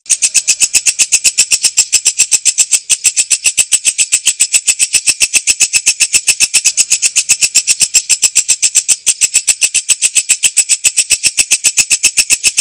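Walang kecek katydid (Mecopoda) calling: a loud, clear, unbroken train of rapid, evenly spaced high-pitched ticks, about eight to ten a second.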